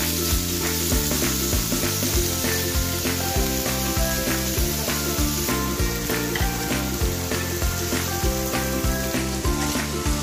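Diced chicken sizzling in hot oil in a wok as it is stirred with a wooden spatula, over background music with a steady beat.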